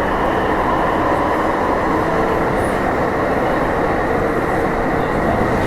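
Steady rumble and hum of a train running, with a few faint steady tones over the noise.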